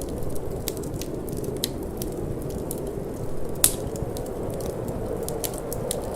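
Wood fire crackling in a fireplace: frequent small, sharp pops with one louder pop about three and a half seconds in, over a steady low rush of wind.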